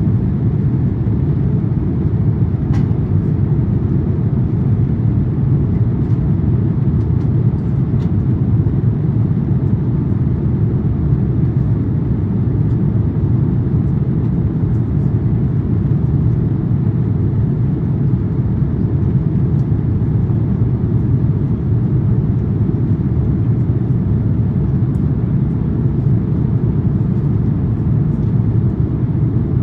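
Steady low rumble of an Airbus A350-900 in flight as heard inside the economy cabin: its Rolls-Royce Trent XWB engines and the airflow over the fuselage.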